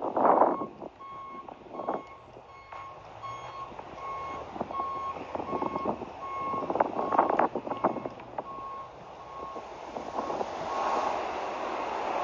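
Vehicle reverse alarm beeping steadily, about two beeps a second, among scattered knocks and clatter, with a vehicle rumble rising near the end.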